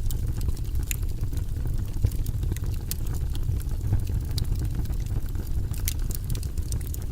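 Wood fire burning in a fireplace, crackling and popping with irregular sharp snaps over a steady low rumble.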